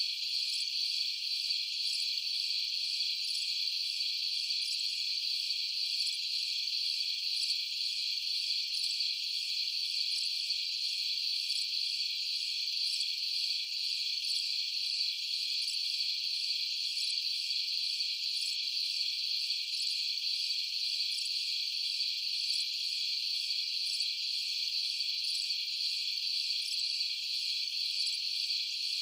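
A chorus of crickets trilling steadily and without a break.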